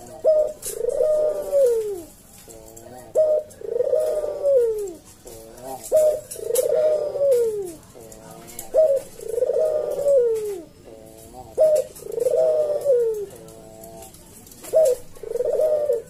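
Puter (Barbary dove) cooing vigorously in repeated phrases about every two and a half seconds. Each phrase is a short note followed by a long coo falling in pitch, with rolling notes in between.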